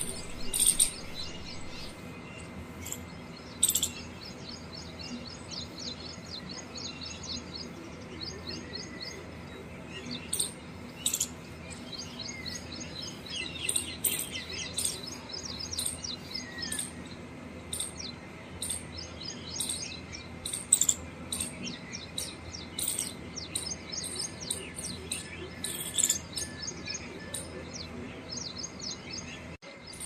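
Small birds chirping and twittering in quick trilled runs, with a few louder sharp chirps, over a steady low background hum.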